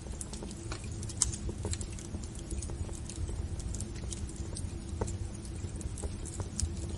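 Wood fire crackling in a fireplace: irregular sharp snaps and pops, several a second, over a steady low rumble. One louder snap comes about a second in.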